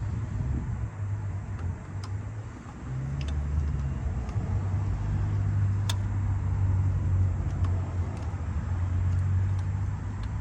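A motor vehicle running: a steady low drone that grows louder about three seconds in, with a few faint clicks.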